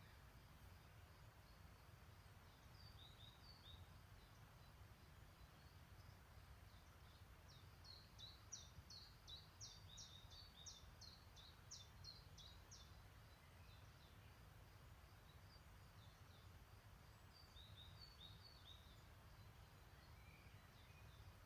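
Faint songbird calls: short high chirps repeated at intervals, with a quicker run of notes in the middle, over a steady low rumble of outdoor noise.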